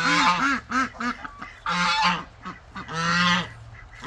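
Goose honking repeatedly at a person: a quick run of short honks in the first second, then longer, drawn-out honks about two and three seconds in.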